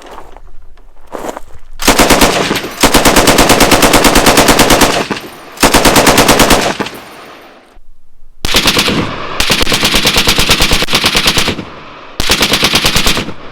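M60 belt-fed machine gun firing six bursts of rapid automatic fire, some short and some about two seconds long, with brief pauses between them.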